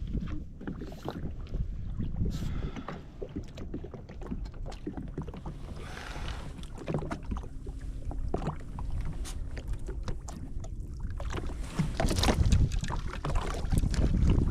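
Wind buffeting the microphone, with water slapping and knocking irregularly against the hull of a jet ski lying at anchor.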